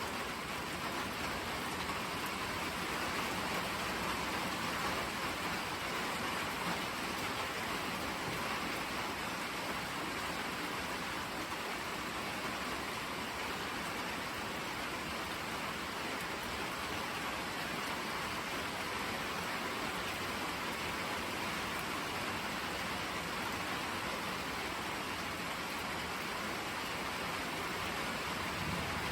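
Steady rain falling, an even hiss with no let-up and no thunderclap.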